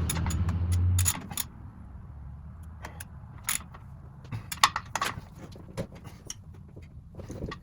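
Scattered metal clinks and clicks from a wrench and tools being handled as the oil-pan drain plug is tightened and the tools are put down. A low hum carries on for about the first second and then stops.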